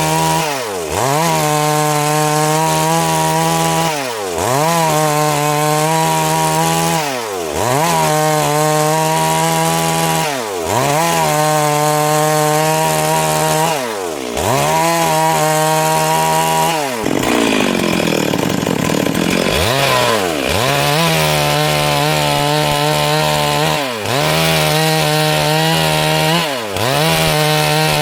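Stihl MS 382 two-stroke chainsaw running at high revs while ripping a siris log into boards. Its pitch dips sharply and recovers about every three seconds, with one longer, rougher dip a little past halfway.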